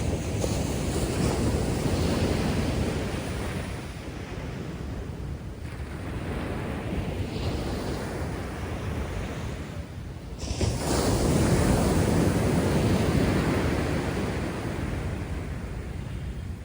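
Rough post-typhoon sea surf: heavy waves breaking and washing up the beach, with two big crashes, one right at the start and a louder one about ten seconds in, each fading to a long hiss of backwash. Wind rumbles on the microphone underneath.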